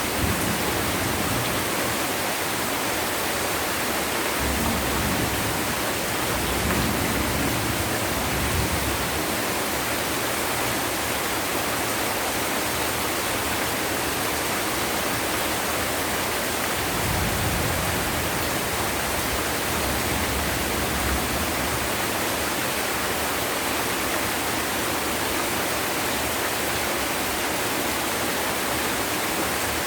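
Heavy rain pouring down in a steady, dense hiss, with two spells of low rumbling, one a few seconds in and one past the middle.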